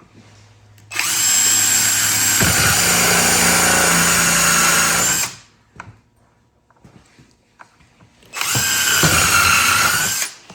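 Cordless drill driving screws to mount door hinges into wood. It runs twice: a steady run of about four seconds starting a second in, and a shorter run near the end.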